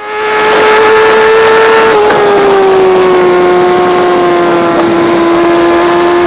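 Kawasaki ZX-10R superbike's inline-four engine running at high revs, a loud steady engine note that dips slightly about two seconds in and then holds, over wind rush.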